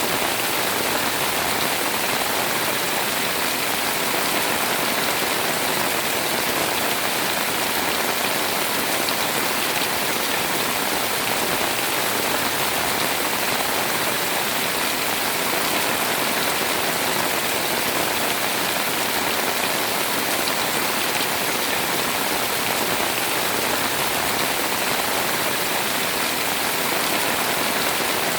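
Heavy rain pouring steadily over a house, an even, unbroken hiss of rain falling on surfaces.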